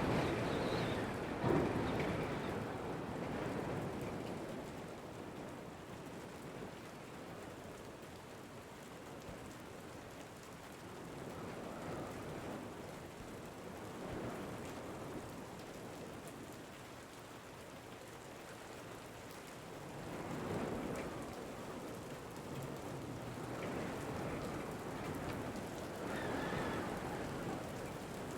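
Steady rain with wind, swelling in gusts at the start and again a couple of times near the end.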